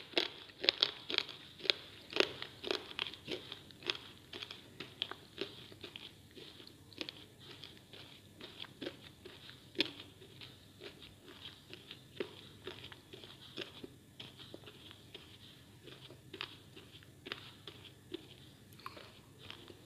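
Crunchy biting and chewing of a hard, dry slate piece: a run of sharp, crisp cracks, fast and loud at first, then spacing out and growing quieter.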